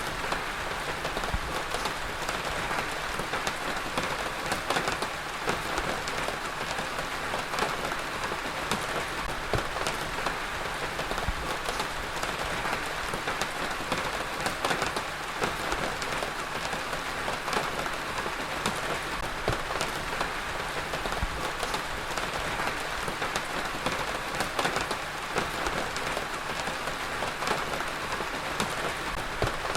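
Heavy rain falling steadily on a hard surface: a dense, even hiss with many sharp individual drop impacts.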